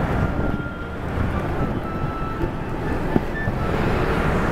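Steady rain falling, an even hiss with a faint knock about three seconds in.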